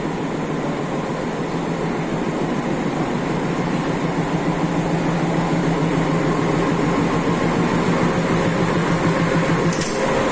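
A train running, a steady rumble and rattle with a constant hum, growing slightly louder.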